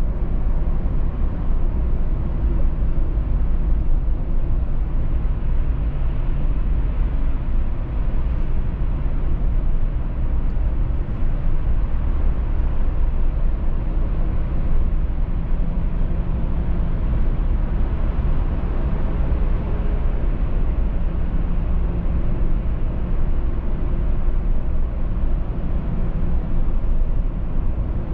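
Steady road noise of a car driving at speed: a low tyre and engine rumble with a few faint hums.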